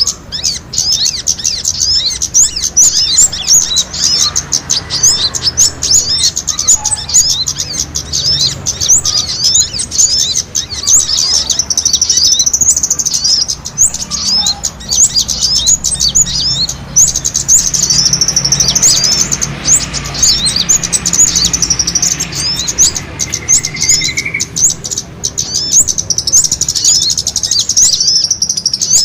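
Bird-lure recording of many small birds squabbling: dense, rapid high-pitched chirping and short trills, continuous and loud.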